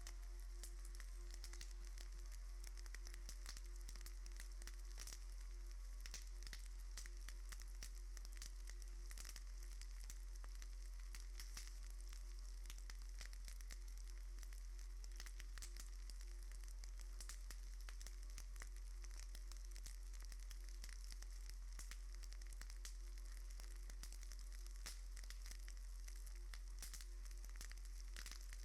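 Steady crackling hiss with many scattered clicks over a constant low hum.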